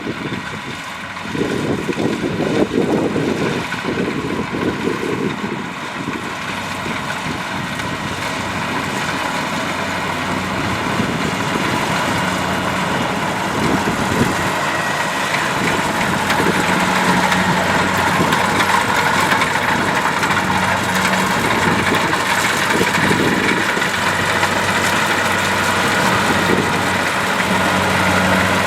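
Kubota DC-70 Plus rice combine harvester's diesel engine running steadily, gradually growing louder. Wind rumbles on the microphone in the first few seconds.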